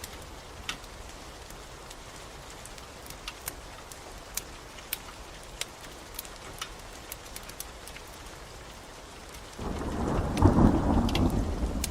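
Steady rain hissing, with scattered sharp pops from a crackling wood fire. About nine and a half seconds in, a loud rumble of thunder rolls in.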